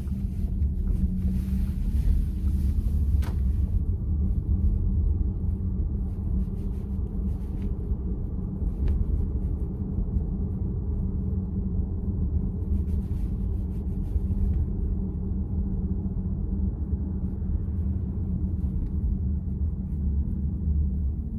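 Steady low road and tyre rumble inside the cabin of a VW ID.4 electric car on the move, with a brief faint tick about three seconds in.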